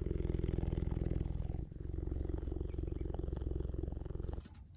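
Clouded leopard purring: a fast low rumble in two long stretches with a short break between them, about a second and a half and two and a half seconds long.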